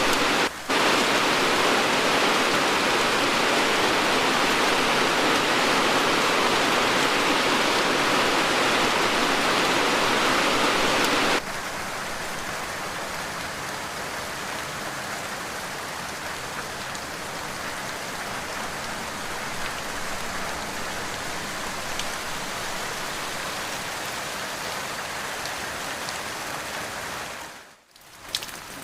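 Recorded rain falling steadily, heavy at first, then cutting abruptly to a lighter, quieter rain about eleven seconds in. There is a brief dropout near the start and a sudden dip near the end, where the track has been edited.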